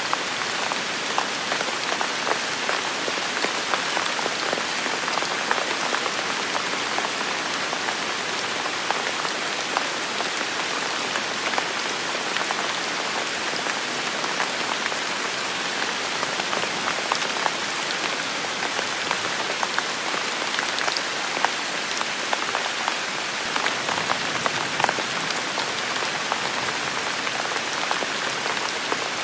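Heavy rain falling steadily, an even hiss with many small drops pattering sharply on nearby surfaces.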